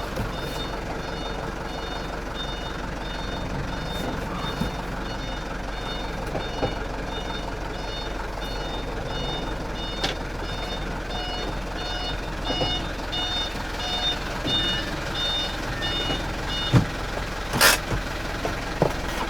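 Truck reversing alarm beeping steadily, about one and a half beeps a second, over the truck's running engine. The beeping stops about three-quarters of the way through, followed by a thump and a short burst of hissing air.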